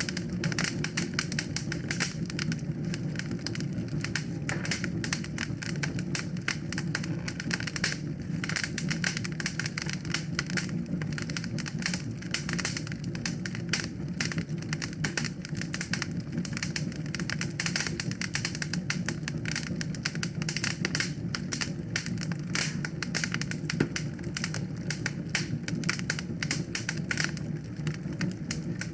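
Wood fire crackling in a fireplace: dense, irregular pops and snaps over a steady low rush of flame.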